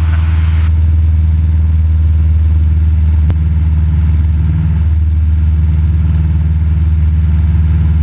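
Cessna 172 Skyhawk's piston engine and propeller droning steadily in cruise, heard inside the cabin. A single sharp click comes about three seconds in.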